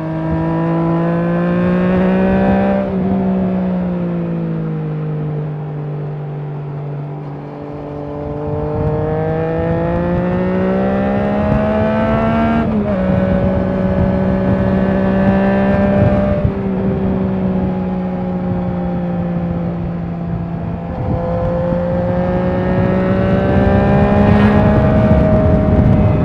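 Triumph Trident 660's three-cylinder engine running through a LeoVince aftermarket exhaust while riding, the revs climbing and easing off several times. About halfway through the pitch drops suddenly, then holds steady before climbing again near the end.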